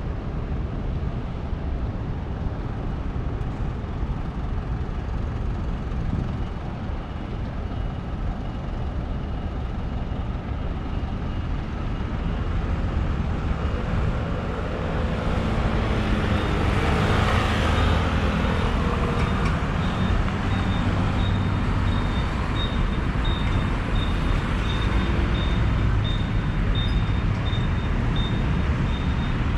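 Street traffic running steadily, with a vehicle's engine passing close and loud about halfway through. After that a high-pitched beep repeats evenly, about twice a second.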